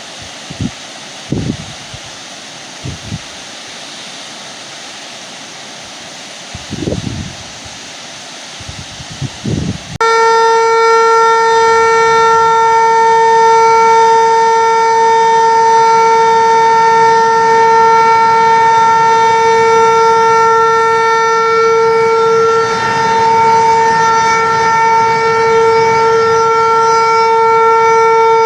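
Dam spillway warning siren sounding one loud, steady, unwavering tone that starts abruptly about ten seconds in. Before it, wind buffets the microphone with a few low thumps.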